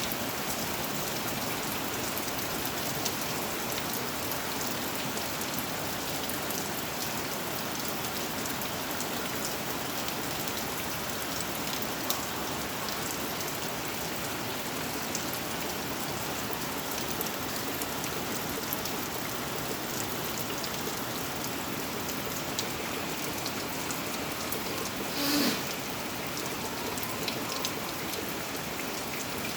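Steady rain falling, with scattered individual drops ticking. A brief louder sound breaks in about 25 seconds in.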